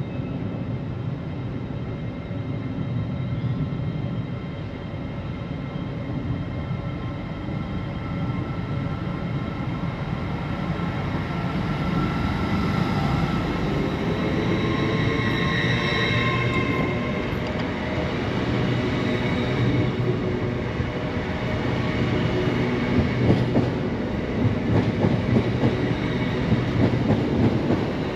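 A train running through the station with a steady rumble and a whine that shifts in pitch around the middle. In the last few seconds its wheels clatter rhythmically over the rail joints.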